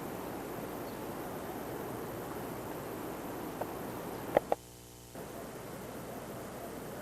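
Steady hiss-like background noise, broken about four and a half seconds in by two sharp clicks and a half-second dropout, the mark of a cut in the camcorder recording.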